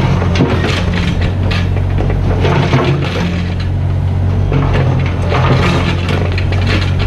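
Mini excavator's diesel engine running steadily, with irregular crunching and clattering of the bucket breaking and scraping through rubble.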